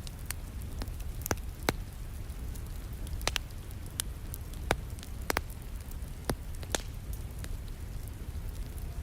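Wood fire crackling, with irregular sharp pops, a few of them louder, over a steady hiss of falling rain and a low rumble.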